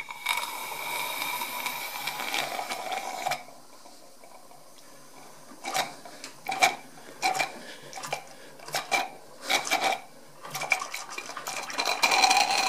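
Brand-new Perseus model steam engine, fed from a Stuart 501 boiler at about 40 psi, being started: a click, then a steady hiss of steam for about three seconds. Irregular spits and metallic clicks follow as the stiff engine turns over, building near the end toward steady running.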